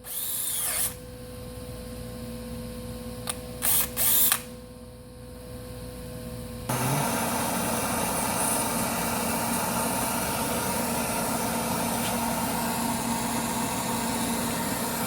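Electric drill running, drilling out the copper air line inside an ARB locker air sleeve with a small 9/64-inch bit. A few short, loud high-pitched spurts come in the first few seconds, and about seven seconds in the sound turns suddenly louder and noisier and stays steady.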